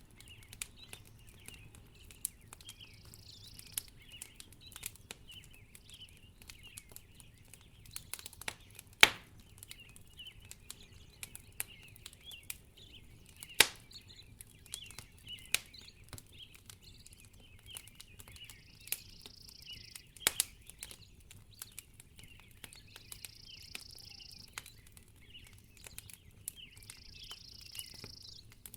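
Wood fire crackling in a fireplace: a steady scatter of small sharp snaps, with two much louder pops about nine and thirteen and a half seconds in.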